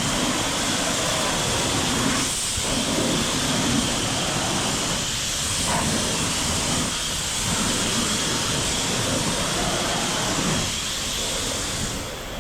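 Pressure washer spraying water in a steady, loud hiss that cuts off sharply near the end.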